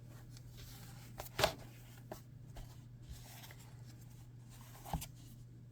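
A few brief knocks and rustles of objects being handled, the loudest about one and a half seconds in and another near the end, over a faint steady low hum.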